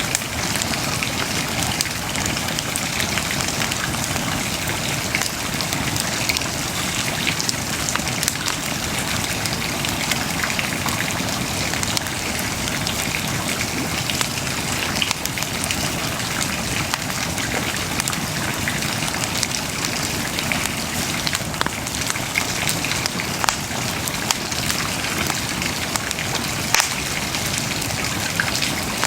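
Wood bonfire burning: a steady hiss of flames with frequent small crackles and occasional sharper pops.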